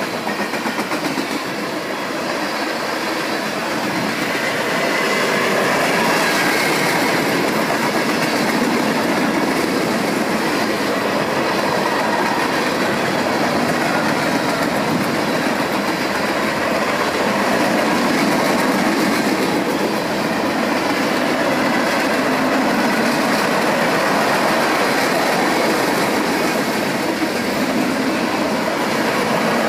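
Cars of a mixed freight train (refrigerated boxcars, tank cars, covered hoppers, flatcars) rolling past: loud, steady noise of steel wheels running on the rails.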